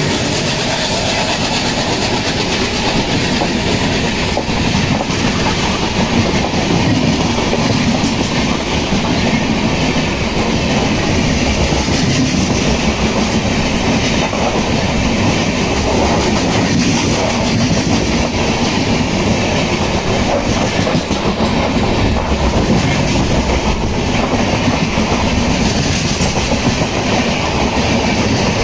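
Passenger train coaches running past at close range: a steady, loud rumble of steel wheels on the track, with a clatter of the wheels over the rail joints.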